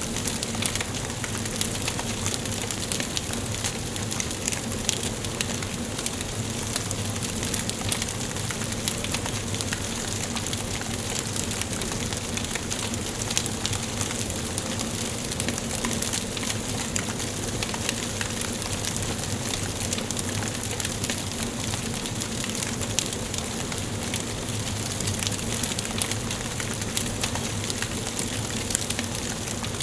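Wood fire burning in a fireplace, crackling steadily with many small, sharp pops over a soft, even hiss.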